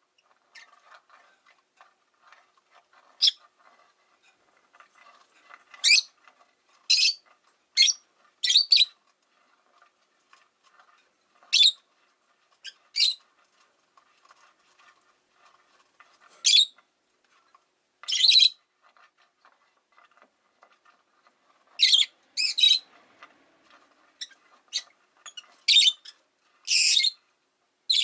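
Rosy-faced lovebirds (peach-faced lovebirds) giving loud, shrill, short calls at irregular intervals, more often toward the end, with quieter chattering in between.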